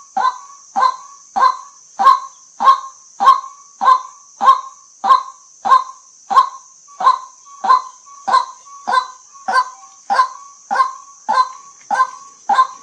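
White-breasted waterhen calling: a monotonous series of harsh, evenly repeated 'kwak' notes, about one every 0.6 seconds. A steady high hiss runs underneath.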